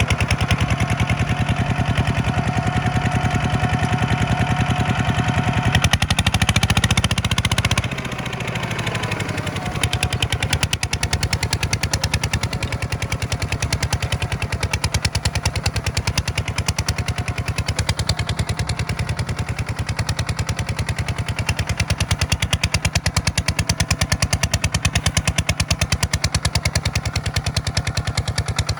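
Tractor engine running hard with a rapid, even pulsing beat. About eight seconds in the sound shifts and drops slightly in level, then runs on steadily.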